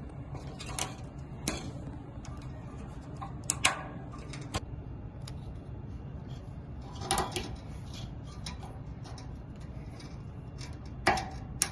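About half a dozen scattered light clicks and knocks, as of small hard parts being handled, over a steady low hum.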